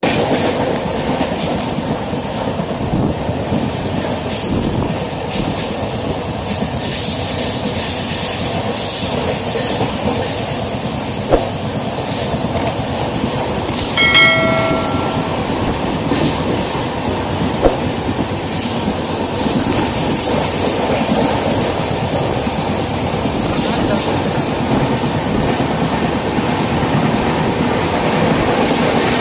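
Running noise of a moving passenger train heard from on board: a steady rumble and rattle of the wheels on the track, with a couple of sharp clicks. About halfway through, a short chime sounds from a subscribe-button animation.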